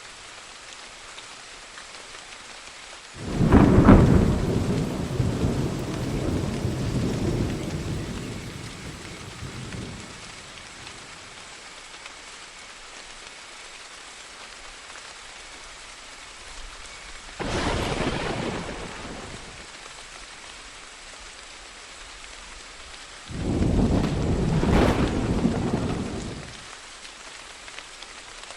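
Steady rain falling through a thunderstorm. Three peals of thunder break over it: the loudest about three seconds in, rumbling on for several seconds, a shorter one past the middle, and another near the end.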